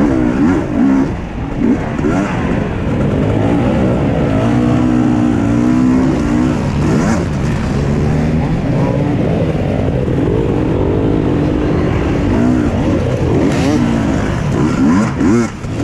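Husqvarna TE 250i two-stroke enduro motorcycle engine revving up and down over and over, its pitch rising and falling with the throttle, with short drops in loudness about a second and a half in and near the end.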